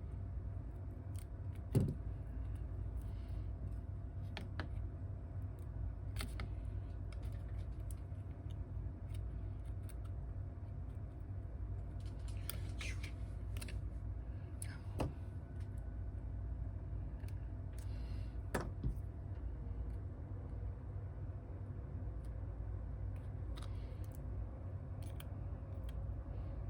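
Scattered light clicks and taps of small hand tools working on a phone, over a steady low hum. The sharpest click comes about two seconds in, with a brief scratchy patch in the middle.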